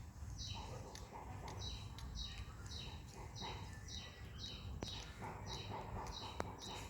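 A bird calling over and over, about ten short calls roughly every two-thirds of a second, each a high note that drops to a lower one, over a steady low outdoor rumble. Two sharp clicks come in the second half.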